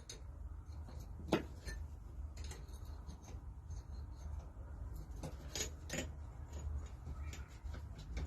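Scattered metallic clinks and knocks of hand tools and parts during the strip-down of an old Lister D engine, with one sharper knock about a second in, over a steady low hum.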